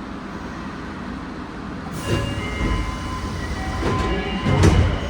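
Nagoya Municipal Subway 2000 series train running, heard from inside the car: a steady low rumble, then about two seconds in louder running noise with high steady squealing tones and two heavy jolts, the second near the end the loudest.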